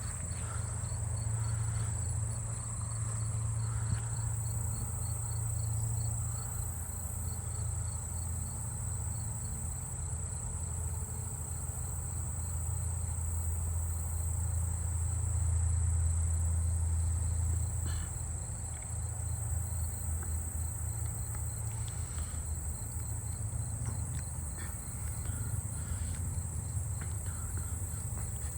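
Crickets and other insects calling together: a continuous high-pitched trill, with a faster pulsed chirping that fades in and out, over a low steady rumble.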